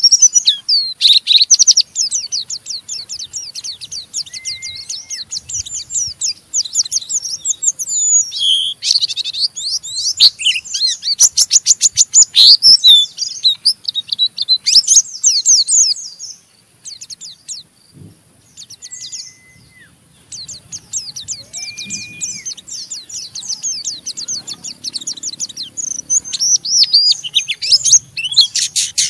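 White-eye (pleci) singing its rough, fast chattering 'ngeriwik' song: long runs of rapid, high, scratchy notes, broken by a short lull about two-thirds through and a few brief, lower whistled notes.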